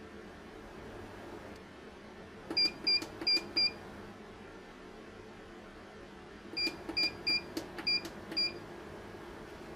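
Electronic beeper of a Felicity IVEM5048 solar inverter/charger sounding short high beeps, four in quick succession and then a second run of about five, each with a small click, over a low steady hum.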